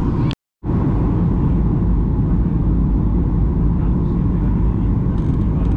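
Cabin noise of a Boeing 737-800 airliner: a steady, loud, deep rumble of its CFM56 jet engines and airflow, with no change in pitch. It cuts out for a split second near the start.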